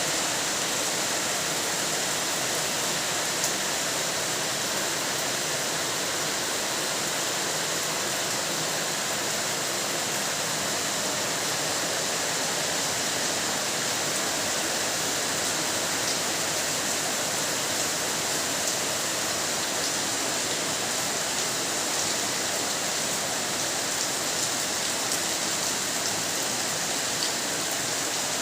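Steady rainfall: an even, continuous hiss with a few faint sharper ticks of drops.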